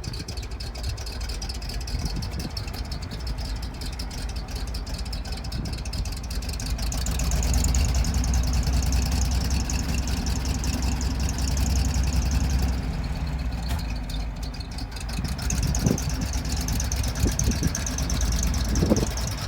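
1971 International truck's engine running steadily, getting louder for several seconds in the middle and then easing back.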